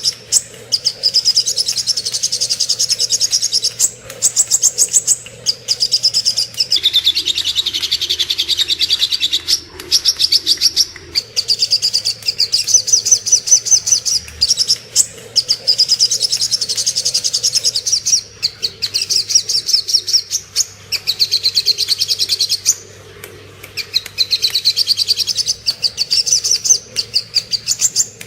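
Sogok ontong (little spiderhunter) singing: fast runs of sharp, rapidly repeated high chirps, each phrase lasting a couple of seconds, with brief pauses between phrases.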